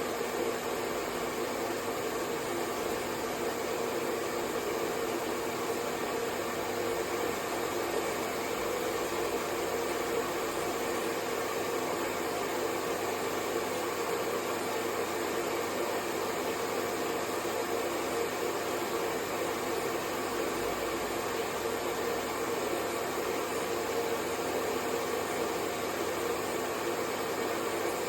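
Hair dryer running steadily: an even rush of blown air with a steady hum in it, never changing in pitch or level.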